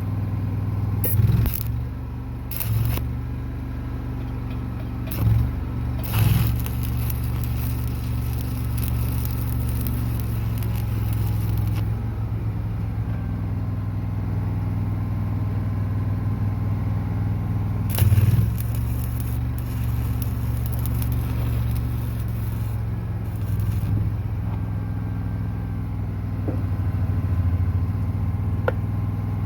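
Stick-welding arc crackling as tack welds are laid with a 7018 rod, with several short louder bursts in the first six seconds and another about eighteen seconds in, over an engine running steadily.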